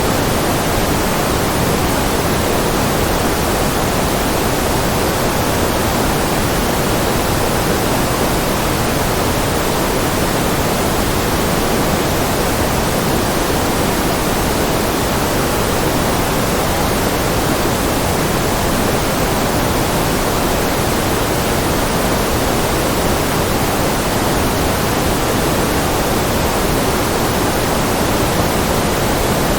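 Steady synthetic noise, a constant hiss weighted toward the lower middle, the kind of white or pink noise sold for concentration. It does not change.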